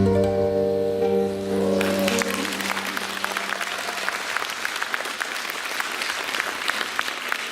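A song ends on a held final chord. About two seconds in, the audience breaks into applause, which goes on as the last low note dies away.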